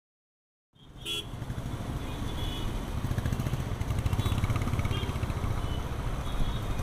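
Road traffic rumble starting suddenly just under a second in, with several short, high horn toots from surrounding vehicles.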